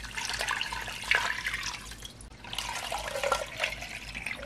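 Water running from a kitchen tap and splashing into a container, in two spells with a short break about two seconds in.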